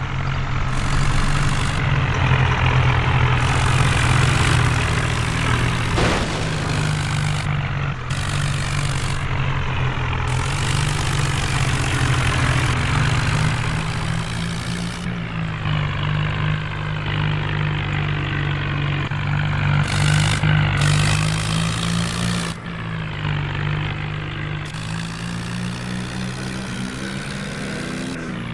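Vehicle engine sound running steadily with some rises and falls.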